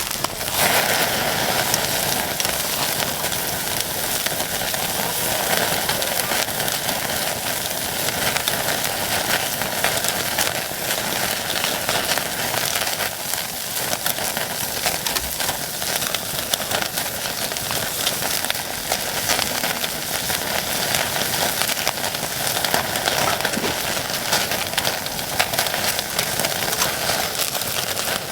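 Japanese Black wagyu sirloin steak sizzling over a wood campfire, its fat spattering in a steady, dense crackle.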